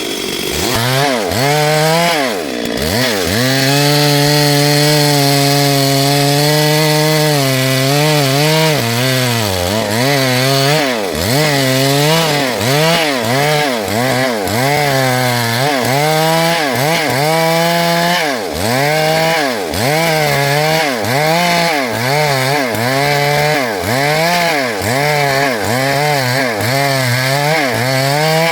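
Stihl MS 382 two-stroke chainsaw running near full throttle while cutting dry wood. Its engine speed holds steady for a few seconds, then dips and recovers about once a second.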